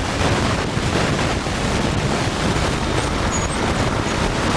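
Steady rushing wind noise on the camcorder microphone.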